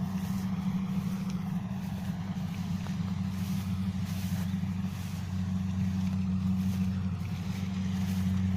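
Kubota DC70 rice combine harvester running steadily, a constant low engine drone.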